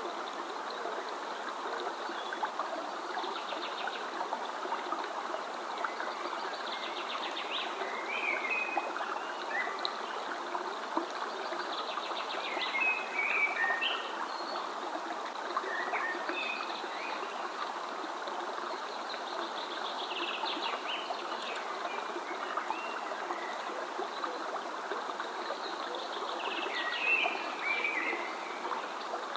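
A steady rush of running stream water, with songbirds chirping and trilling over it in short bouts every few seconds.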